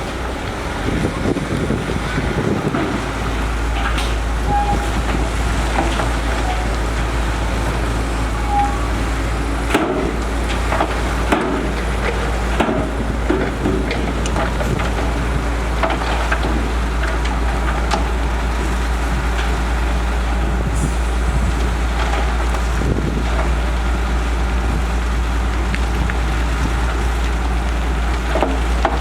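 Heavy diesel construction machinery running steadily with a deep rumble, with scattered knocks and clanks of metal and earth.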